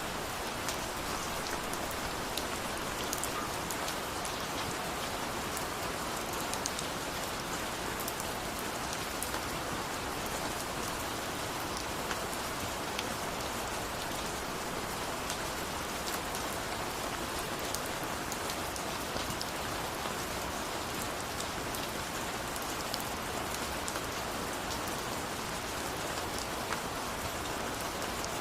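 Steady rain, an even hiss sprinkled with fine ticks of individual drops striking a surface.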